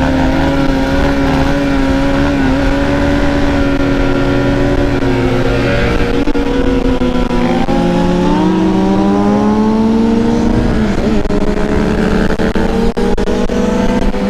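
Dirt bike engine running under way, its pitch holding steady at first, then shifting down and back up as the throttle changes from about the middle on.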